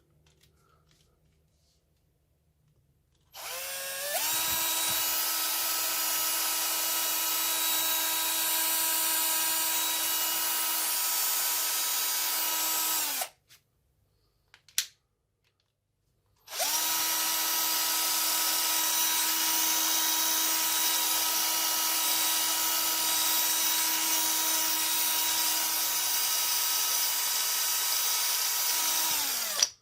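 12 V cordless drill running unloaded after its gearbox was cleaned and regreased: two long runs with a steady whine, each spinning up at the start and winding down at the end, with a short click between them.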